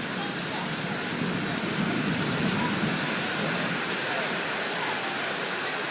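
Steady hiss of rain during a thunderstorm, with a slight low swell about two seconds in.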